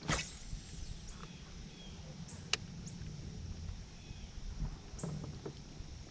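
Outdoor sounds from a fishing kayak on a lake: a brief swish right at the start and one sharp click about two and a half seconds in, over a low steady rumble of wind and water, with a few faint high chirps.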